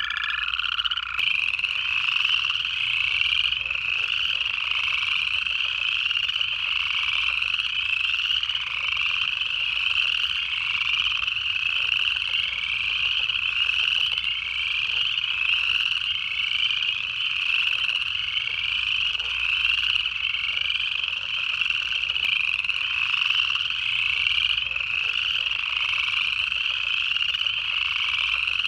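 Dense night chorus of upland chorus frogs, their rising trills overlapping continuously. A long, even, lower-pitched trill, the call of an American toad, stops about a second in.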